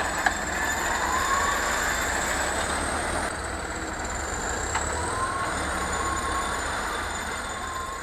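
Heavy vehicle engine running steadily with a low rumble and a high whine that wavers slightly in pitch.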